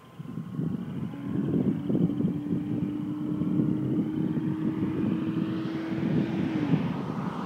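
Toyota Supra's naturally aspirated 2JZ-GE straight-six, with an aftermarket Fujitsubo exhaust, approaching at speed. Its note holds one steady pitch, then dips briefly near the end as it grows louder, over wind buffeting the microphone.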